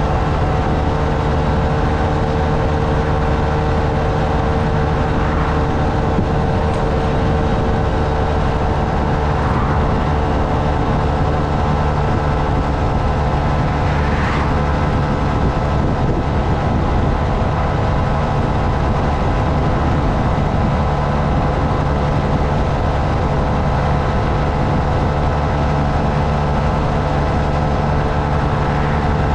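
Honda Navi mini motorcycle's single-cylinder engine running at a steady cruising speed, under wind and road noise.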